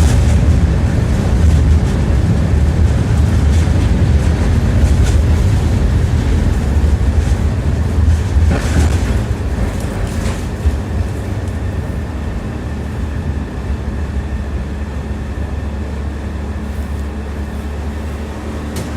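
Tram running on its rails, heard from inside the car: a steady low rumble with wheels clacking over rail joints, a few sharper knocks coming about a second in and again around the middle.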